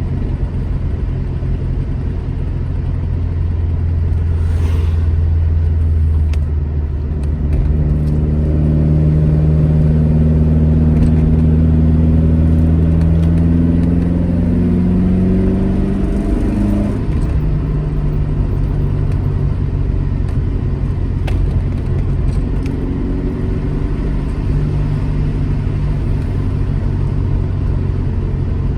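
Alfa Romeo GT Junior's twin-cam four-cylinder engine under way. It pulls with pitch and loudness climbing for about ten seconds, drops back suddenly a little past halfway, then runs steadily.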